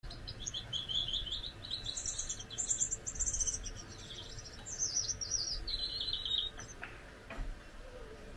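Gouldian finch singing: a rapid string of high chirping notes that stops about six and a half seconds in.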